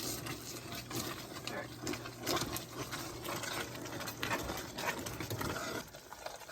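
Light, scattered clicks and scrapes of serving utensils and food being handled on a plate, over a low steady hum that stops about six seconds in.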